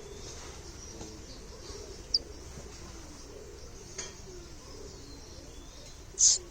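Baby birds calling: a brief high chirp about two seconds in and a loud, sharp high squeak near the end, over a low wavering murmur.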